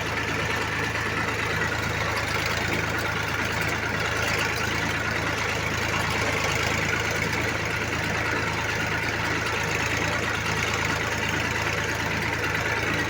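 Sonalika 740 DI 42 hp tractor's diesel engine running steadily at a constant speed.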